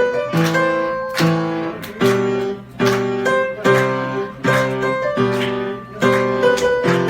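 Piano played solo, a chord struck about every 0.8 seconds under a melody, each note ringing and fading before the next.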